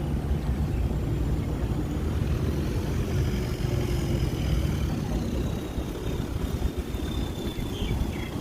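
A boat's engine running steadily, with a low rumble and wind noise.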